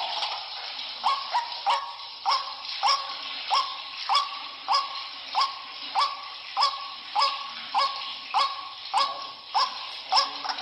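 White-breasted waterhen (ruak-ruak) giving its repeated 'kru-ak' call, one call about every 0.6 seconds, each starting sharply. This is a lure recording made to draw waterhens in.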